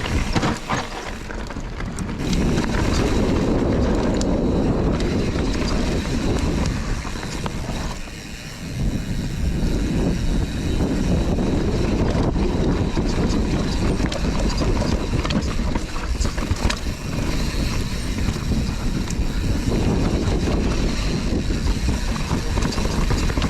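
Mountain bike riding fast down a rough dirt trail: tyres rumbling, with frequent knocks and rattles from the bike over the bumps and wind buffeting the microphone. The noise eases briefly about eight seconds in.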